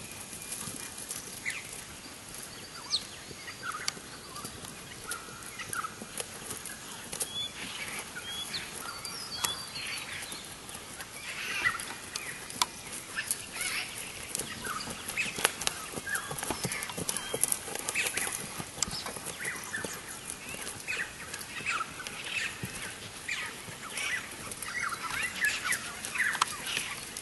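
Birds chirping and calling in many short, scattered notes over a steady background hiss, with occasional sharp clicks.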